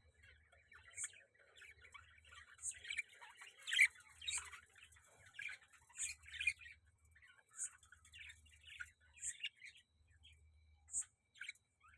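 Budgies chattering and warbling, with short, high chirps repeating about every one and a half seconds.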